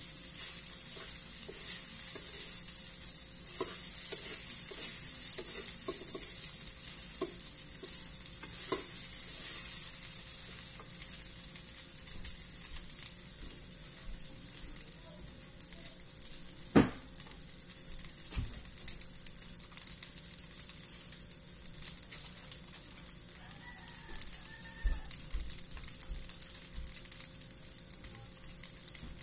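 Fried rice with hotdog sizzling in a metal wok, a wooden spatula scraping and tapping against the pan during roughly the first ten seconds. The sizzle then goes on more quietly, with one sharp knock a little past the middle.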